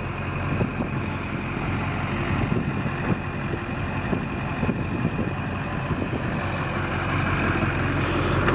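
Duramax 6.6-litre V8 turbodiesel in a GMC 2500HD pickup idling steadily through an MBRP aftermarket exhaust.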